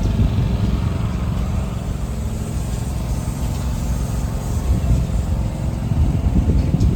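Steady low mechanical rumble with a fast, even pulsing, like heavy machinery running close by.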